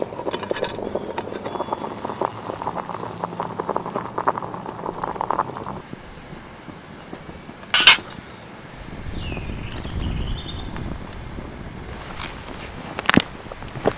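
Clinking and rattling handling noises for about six seconds, then one loud sharp knock about eight seconds in, a low rumble, and another sharp click near the end.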